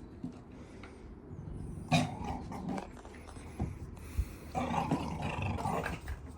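Dog growling in play, in short bouts at first and a longer stretch in the second half.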